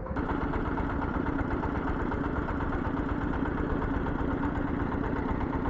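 An engine running steadily at an even speed, starting abruptly and holding without change.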